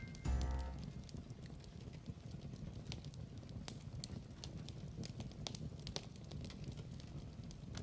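Log fire crackling, with scattered sharp pops and snaps over a low steady rumble. A last musical chord dies away in the first second.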